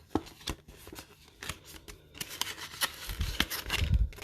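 Handling of a sealed booster pack and a paper envelope: crinkling and sliding with scattered clicks and taps, turning into a denser stretch of rustling with a few low thumps in the second half.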